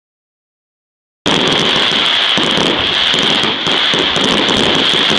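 Dense crackling of fireworks going off continuously, starting after about a second of dead silence.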